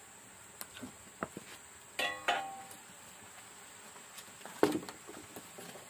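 Metal cookware being handled: a ringing metallic clink about two seconds in and another just after, a sharper knock near the end, and lighter taps between, over a steady high-pitched whine.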